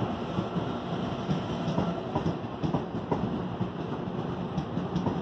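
CPTM Series 9500 electric multiple-unit train moving past along the platform: a steady rumble of wheels on rail with irregular clicks and knocks as the cars roll over the track. A faint high whine stops about two seconds in.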